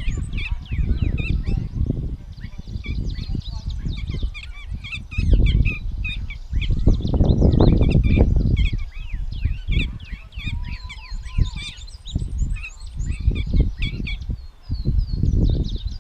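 Gray catbird singing, a long unbroken jumble of short squeaky, mewing and chattering notes that pauses briefly near the end. A loud low rumble that swells and fades lies under the song and is the loudest sound.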